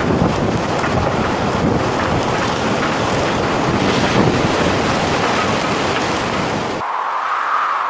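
Storm wind buffeting the microphone over rushing water, a loud dense roar that cuts off abruptly about seven seconds in. A thinner whooshing that rises and falls follows.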